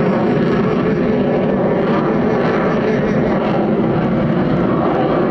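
Lockheed U-2 Dragon Lady's single turbofan jet engine, a steady loud roar as the aircraft flies by.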